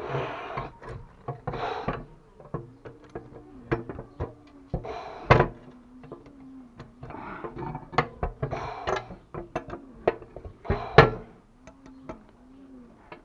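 Plumbing tools and fittings being handled: irregular metal knocks, clicks and short scraping noises, with two sharper knocks about five and eleven seconds in. A pigeon or dove coos in repeated low phrases in the background.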